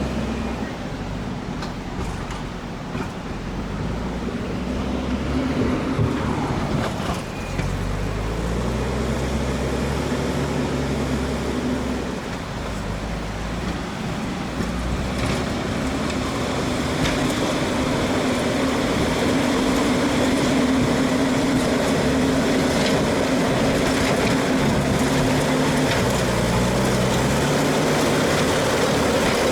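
A heavy engine runs throughout, its pitch stepping up and down again and again as it works under changing load. A few short knocks sound over it.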